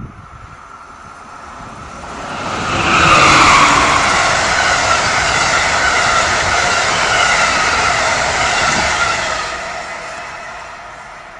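Amtrak electric passenger train passing at speed: the rushing builds about two seconds in, stays loud for some six seconds, then fades away.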